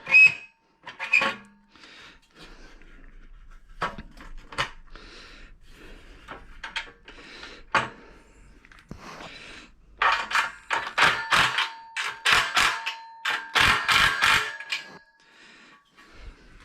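Metal parts of a CNC router table frame knocking and clattering as a side bracket is fitted to the rails: scattered sharp knocks, then a busy stretch of clanks and clicks about ten seconds in, with a faint ring.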